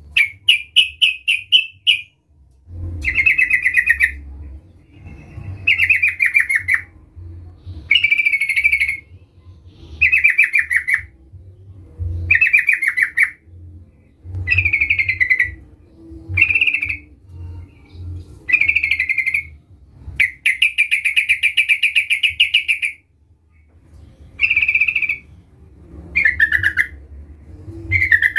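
Yellow-vented bulbul (trucukan) singing: bubbly, rapidly chattering phrases about a second long, repeated roughly every two seconds, with one longer phrase of about three seconds a little past the middle.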